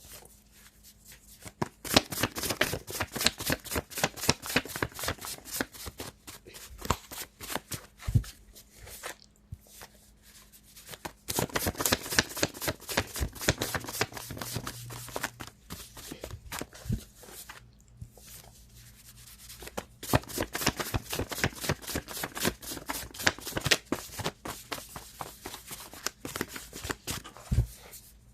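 A deck of tarot cards shuffled by hand: three long spells of rapid, crisp card clicks with short pauses between them.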